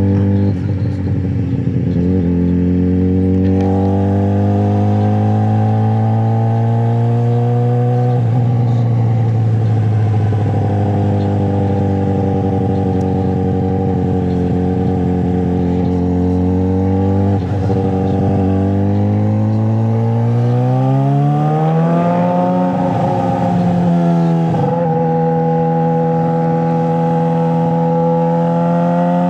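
Straight-piped 2009 Suzuki GSX-R600 inline-four engine running under way. Its pitch climbs slowly between a few sudden drops at gear changes, with a steeper rise about two-thirds through.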